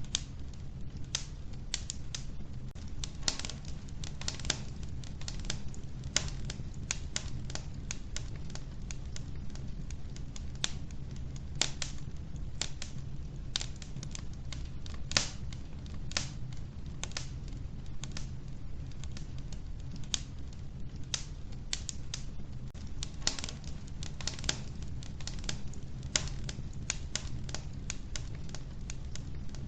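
Wood fire burning in an old wood-burning stove, logs crackling and popping in irregular sharp snaps, several a second, over a low steady rumble.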